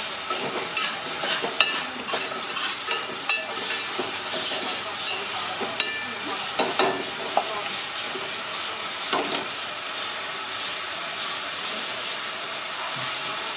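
Food sizzling and frying in a hot pan as it is stirred, a steady hiss broken by scattered sharp clicks.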